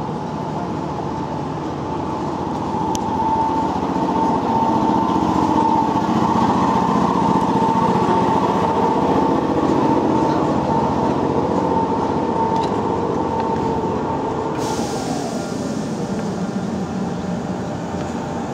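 Yoro Railway 620 series electric train moving slowly along the platform with its doors open: a steady rumble of the running gear with a steady whine, louder in the middle. About fourteen seconds in the whine falls in pitch and a hiss starts.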